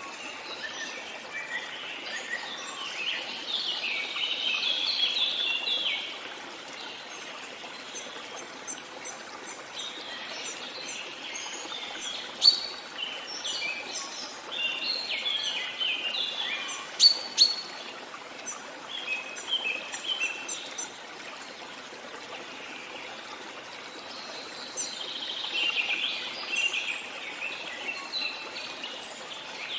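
Songbirds chirping and singing in several spells of quick calls over the steady rush of a running stream.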